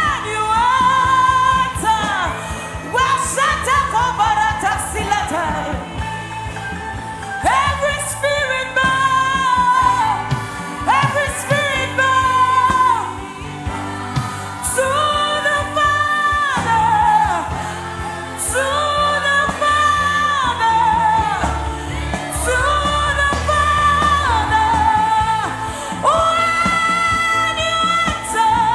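Gospel worship singing: a voice sings long, wavering held phrases over a steady instrumental accompaniment with light, regular percussion.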